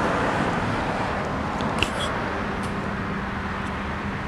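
Steady rushing noise of road traffic going by, with a faint engine hum in it during the second half.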